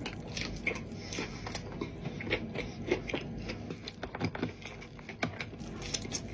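A person eating, with irregular small clicks, smacks and scrapes of chewing and handling food.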